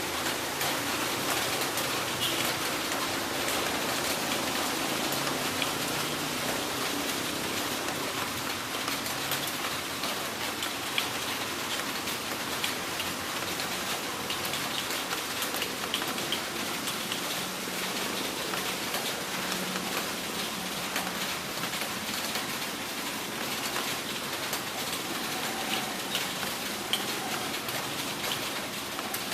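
Heavy rain falling steadily, a dense hiss full of small, sharp drop ticks on a hard surface.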